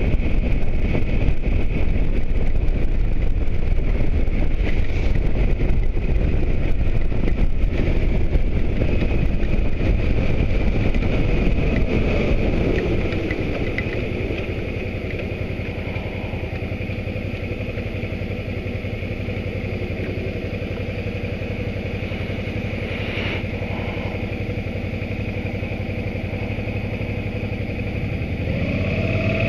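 Motorcycle riding with heavy wind and road noise, then slowing, its engine pitch falling about twelve seconds in. The engine idles steadily, then revs up again near the end.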